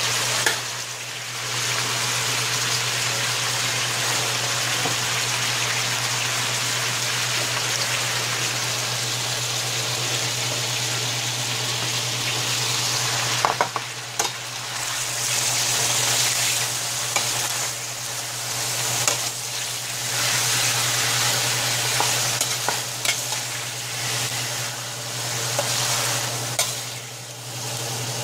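Mixed vegetables sizzling steadily in oil and butter in a stainless steel frying pan. A metal slotted spatula scrapes and clicks against the pan as the vegetables are stirred and pushed aside, mostly in the second half.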